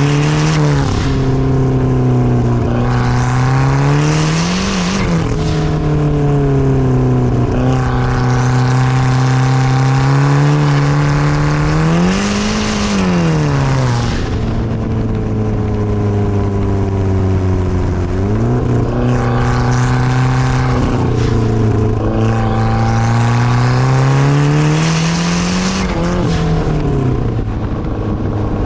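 2012 Kia Optima SX's turbocharged 2.0-litre four-cylinder, fitted with a big 20G turbo running 27 psi, driven hard: the engine note climbs in pitch under throttle and then drops back, several times over.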